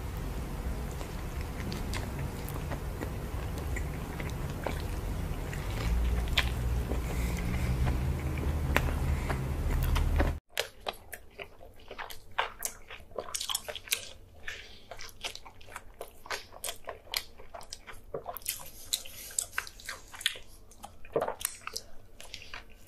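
Close-miked biting and chewing of soft food drenched in cheese sauce, with many short wet mouth clicks. About ten seconds in the sound cuts from a dense, hissy recording with a low rumble to a quieter one where each click stands out.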